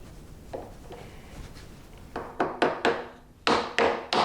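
Wooden pieces knocking against wood: a faint tap, then a string of about eight sharp knocks and taps in two quick clusters in the second half.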